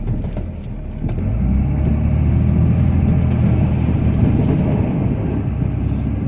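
Cummins turbodiesel straight-six in a Ram pickup running under load while plowing, heard from inside the cab as a steady low drone that grows louder about a second in.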